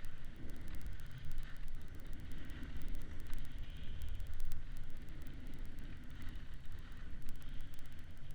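Wind buffeting a moving camera's microphone: an uneven low rumble with a steady hiss and a fast, faint crackle over it.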